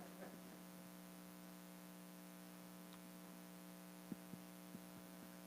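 Near silence: a faint steady electrical hum, with a few faint ticks about four seconds in.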